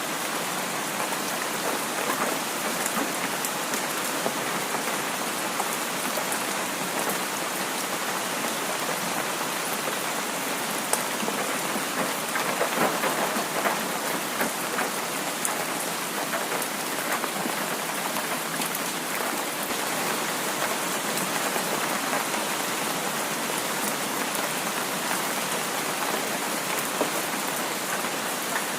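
Heavy rain falling steadily, with many individual drops ticking throughout and a slight swell about halfway through.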